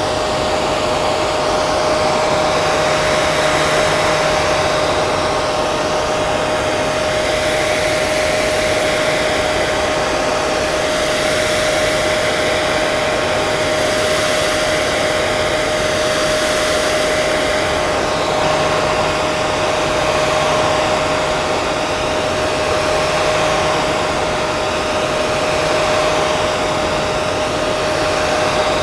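Hair dryer running steadily: a continuous rush of air with a steady motor whine underneath and slight slow swells in the hiss.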